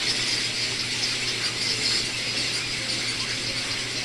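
Steady din of a heron and egret breeding colony: many birds calling at once in a continuous high, rattling chatter.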